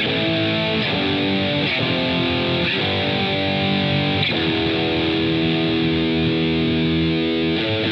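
Rock band instrumental intro led by distorted electric guitar through effects, playing sustained chords that change every second or so, with one long held chord through the second half.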